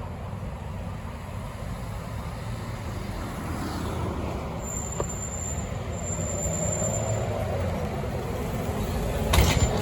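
Scania K270UB city bus's diesel engine running with a steady low rumble that grows slightly louder. A high thin whine sounds in two stretches midway, and a brief loud hiss of air comes about nine seconds in.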